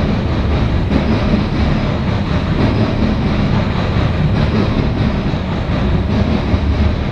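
CSX coal train rolling past close by: steady, loud noise of steel wheels running on the rails, heaviest in the low end.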